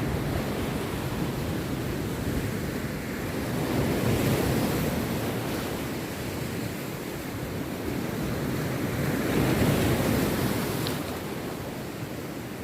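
Rough sea surf breaking on a beach, a continuous wash of waves that swells louder about four seconds in and again around ten seconds.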